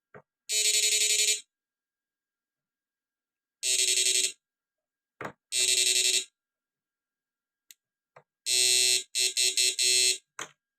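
Electric fishing inverter buzzing loudly in switched bursts, each about a second long with dead silence between. Near the end it gives a quick run of short pulses.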